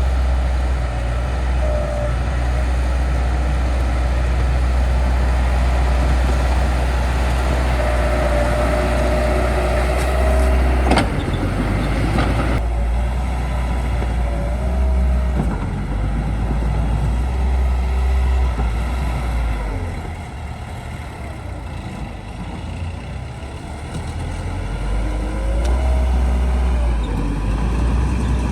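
Bulldozer's diesel engine working under load, its pitch rising and falling, with a sharp clank about eleven seconds in. It eases off for a few seconds near the end, then picks up again.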